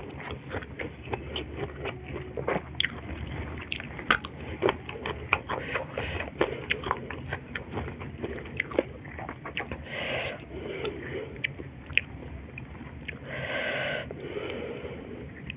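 Close-up mouth sounds of eating shrimp in spicy sambal with rice: steady chewing with many small wet clicks and smacks, and two short breaths, about ten and thirteen seconds in.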